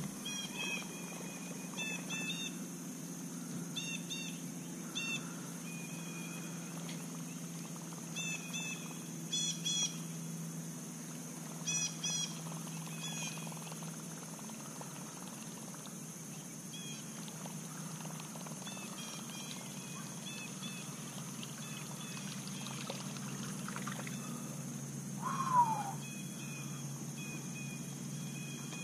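Wild birds calling in short clusters of chirps every second or two, over a steady high drone. About 25 seconds in, a brief falling note is the loudest sound.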